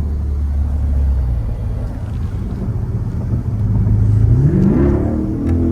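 Car engine running with a low steady drone, then its pitch rises as it revs up about four seconds in.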